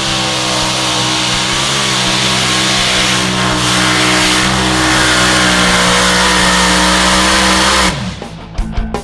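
Pulling vehicle's engine held at full throttle under load, a loud steady note with slight wavers in pitch. About eight seconds in, the throttle comes off and the pitch drops quickly as the engine winds down.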